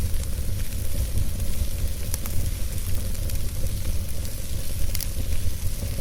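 Logs burning in a fireplace: a steady low rumble and hiss from the flames with a few sharp crackles, the clearest about two and five seconds in.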